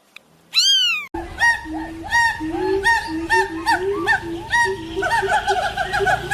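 A cat meows once. About a second in, a flock of birds takes over, giving many short, overlapping calls repeated several times a second over a steady background hiss.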